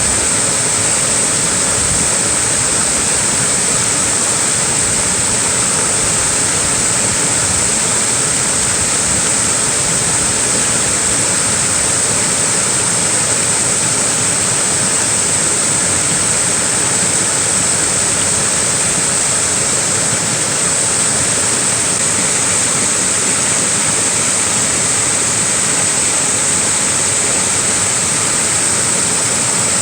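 Small waterfall splashing with a steady, unbroken rush of falling water, with a bright hiss in the upper range.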